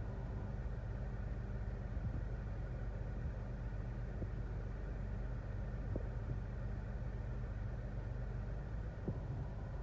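Car engine idling, a steady low hum heard from inside the car's cabin.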